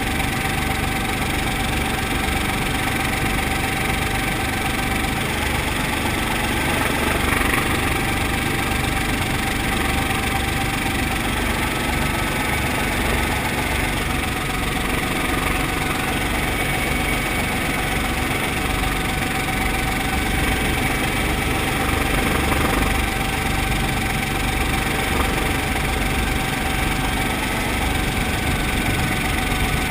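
Brantly B-2B helicopter's piston engine and rotor system running steadily, a continuous unbroken drone with a steady mid-pitched tone through it.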